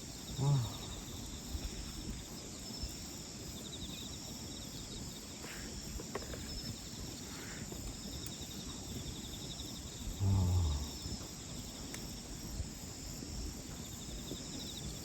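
Crickets chirping steadily in a continuous high pulsing trill. Two short, low-pitched hum-like sounds stand out over them, one about half a second in and one about ten seconds in.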